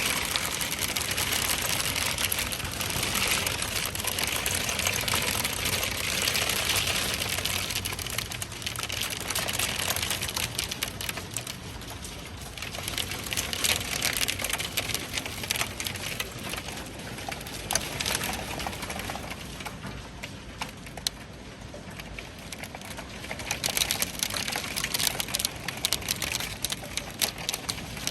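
Hailstones pelting down in a dense, rapid clatter of small hard impacts. The fall eases in the middle and picks up again near the end.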